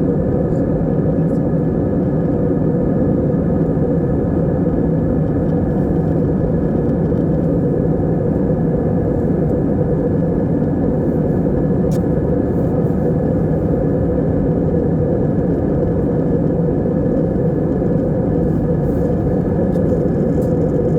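Steady in-flight airliner cabin noise heard from inside the cabin: a constant low rumble of engines and airflow that does not change.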